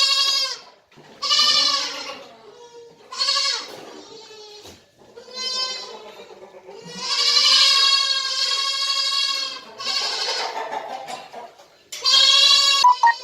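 Goats bleating, about six calls one after another, with the longest lasting over two seconds around the middle.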